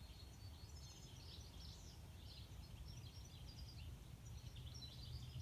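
Garden birds singing, faintly, in a string of quick chattering, warbling phrases, over a steady low rumble.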